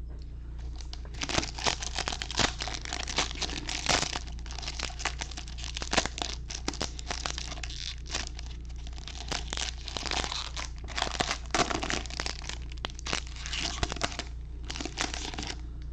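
Foil trading-card pack wrappers being torn open and crinkled by hand, in repeated crackling bursts with short pauses between them.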